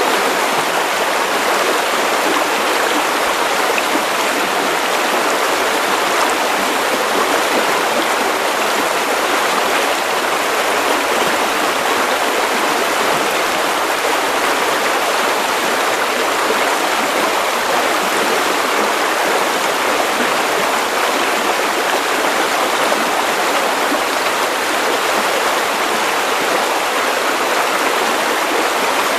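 Steady white noise for sleep: an even, unchanging hiss with little bass.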